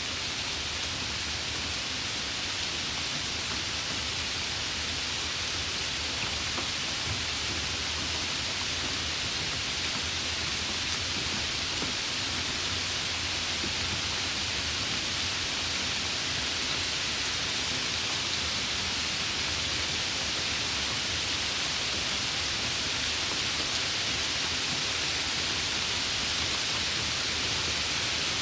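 Steady heavy rain falling, an even hiss with a low rumble beneath it.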